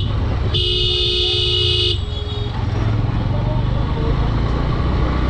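A vehicle horn sounds one long blast of about a second and a half, two notes at once, over the steady low running noise of a moving motorcycle.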